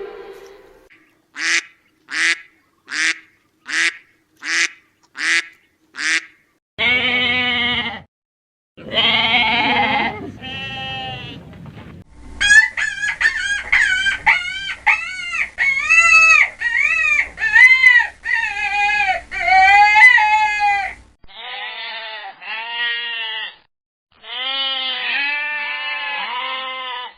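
A run of different farm animal calls, one clip after another: seven short, evenly spaced calls, then a few longer pitched calls, then a long string of rising-and-falling calls, and more calls near the end.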